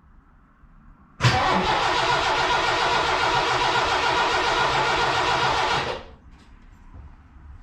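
1986 Mercury Cougar's 3.8L V6 turned over by the starter, kicking in abruptly about a second in and running steadily for about five seconds before stopping suddenly.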